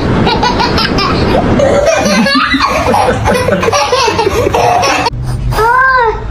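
People laughing, then a single rising-and-falling cat meow near the end.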